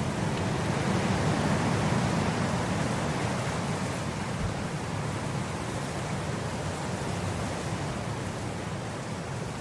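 Wind blowing across grass: a steady rushing that swells over the first few seconds and then eases a little.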